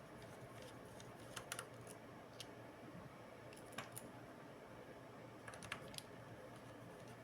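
Light, scattered clicks and taps of small laptop parts being handled during disassembly work, a few at a time, over a faint steady room hum.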